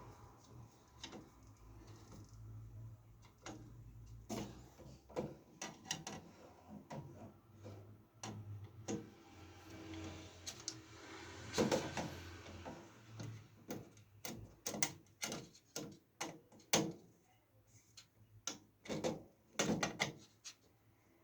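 Irregular clicks and knocks of hard computer parts being handled and fitted together while a liquid cooler is installed in a PC case.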